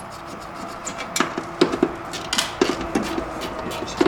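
A wrench and other hand tools clinking and knocking on metal while the cooling fan is unbolted, with irregular sharp clicks, about a dozen in all.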